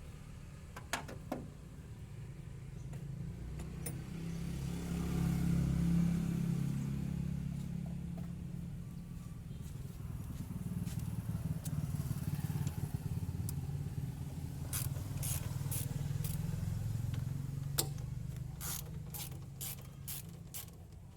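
Hyundai Atoz engine idling steadily, its hum swelling briefly a few seconds in, with a few sharp clicks and a run of taps and clicks near the end.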